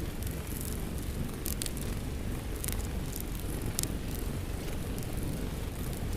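Wood fire in a fireplace crackling, a few sharp pops standing out over a steady low rumble, layered with steady rain.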